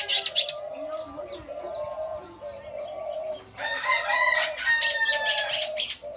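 Pet cage bird calling loudly and harshly in two bursts: a short one at the start and a longer one from about three and a half seconds in to near the end.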